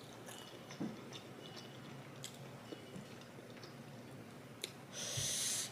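Faint chewing of a mouthful of fried rice and turkey, with small mouth clicks. Near the end comes a short breathy hiss, the loudest sound.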